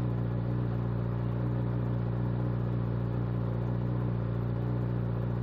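Kawasaki Z H2's supercharged inline-four motorcycle engine idling steadily, freshly retuned.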